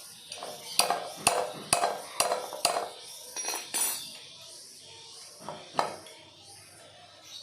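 Sharp metal-on-metal knocks and clinks from tools working on a refrigerator compressor being opened up: five in quick succession at about two a second, then a few more, spaced further apart.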